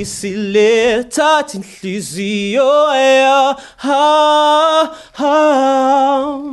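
A man singing unaccompanied, holding three or four long notes with vibrato, with short breaks between the phrases.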